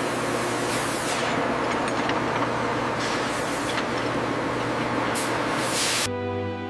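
Steady machinery noise with several short bursts of hissing spray. Music comes in near the end.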